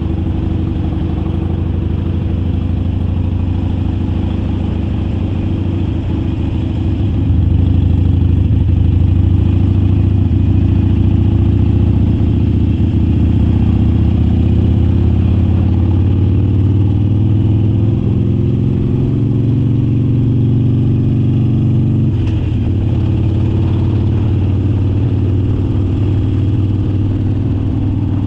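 Harley-Davidson Forty-Eight's 1200 cc air-cooled V-twin running under way, its engine note getting louder about seven seconds in and slowly rising in pitch, then dropping suddenly about two-thirds of the way through as the throttle eases or a gear changes.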